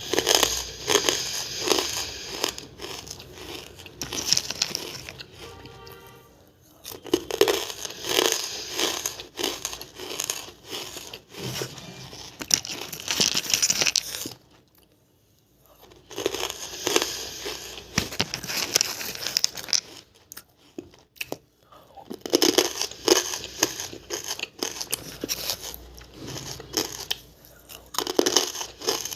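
Close-up crunching and chewing of hard, chalky lumps of banslochan (tabashir, bamboo silica), in long bursts of crackly crunches broken by two short pauses, about halfway through and again past the two-thirds mark.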